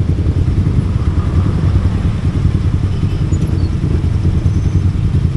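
Steady low rumble of a vehicle travelling on the road, running evenly throughout.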